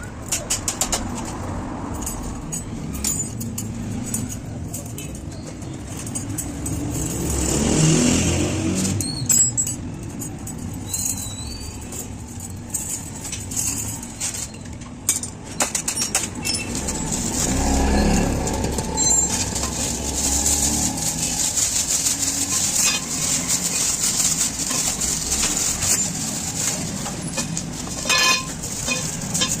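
Road traffic going by: two vehicles swell and fade, one about eight seconds in and one about eighteen seconds in, over a steady low rumble. Short sharp clicks and taps come and go throughout.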